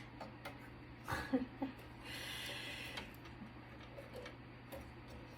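Faint ticks and taps of hand tools and small screws being worked while a metal network switch is taken apart, with a soft hiss lasting about a second near the middle.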